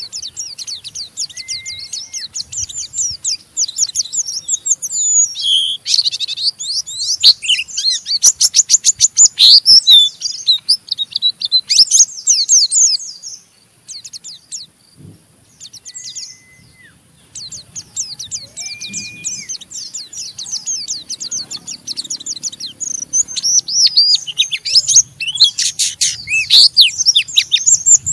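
White-eyes (pleci) giving their fast, harsh 'ngeriwik' chatter: dense runs of rapid high-pitched notes, with a brief lull about halfway through before the chatter resumes.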